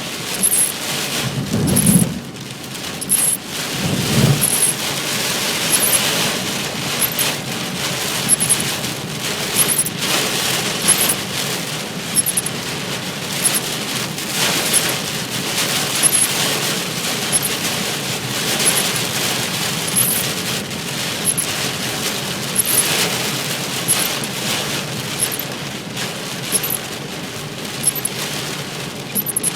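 Heavy rain pelting a car's body and windscreen in a dense, crackling patter of hard drops while driving. Two brief low rumbles come a couple of seconds apart near the start.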